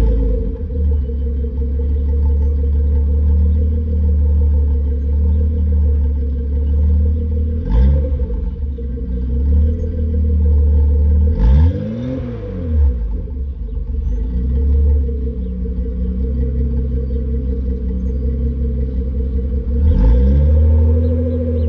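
1977 Datsun 280Z's 2.8-litre L28 inline-six idling through a Flowmaster Delta 40 muffler on a straight pipe from the manifold, a deep steady exhaust rumble. The throttle is blipped three times, at about 8 seconds, about 12 seconds (the biggest rev) and near the end, each rev rising and falling back to idle.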